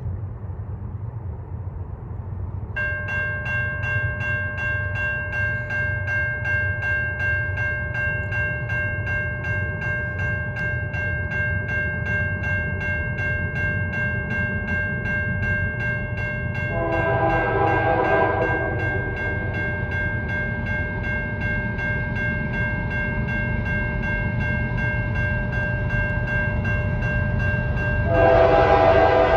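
Low rumble of an approaching freight train's diesel locomotives, with a level-crossing bell starting to ring about three seconds in. The locomotive horn sounds a blast about seventeen seconds in and another near the end, the loudest sounds here.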